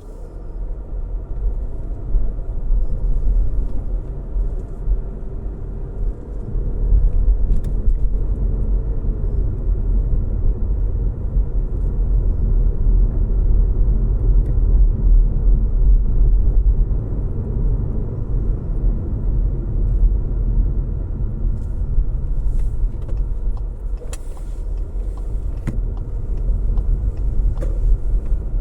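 A car driving along a road: a steady low rumble of engine and tyre noise that grows louder over the first several seconds, with a few faint clicks near the end.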